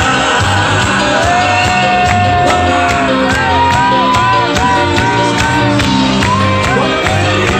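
Live band music playing at full volume over a steady beat: a held melody note, then a run of short rising-and-falling notes, with crowd shouts.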